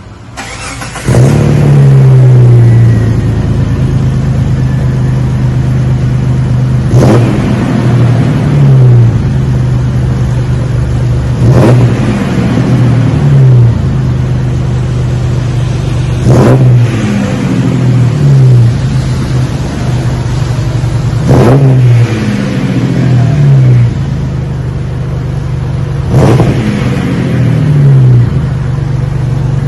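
2002 Jeep Wrangler's 4.0 inline-six coming to life about a second in, then idling through a new cat-back exhaust with a Magnaflow straight-through muffler. It is revved five times, about every five seconds, each time dropping back to idle.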